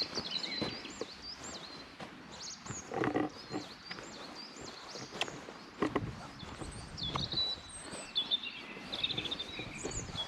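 Small songbirds chirping and singing in high, quick, repeated notes throughout, with a few footsteps on a woodland trail about three, six and seven seconds in.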